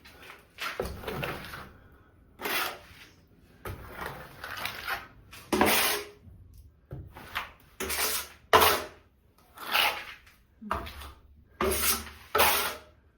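Plastering trowel scraping wet plaster across a wall while banding and levelling it: a run of scraping strokes, about one a second and irregularly spaced.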